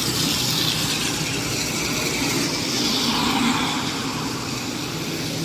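Street traffic: motor vehicles running and passing, with steady road noise and one vehicle swelling louder about three seconds in.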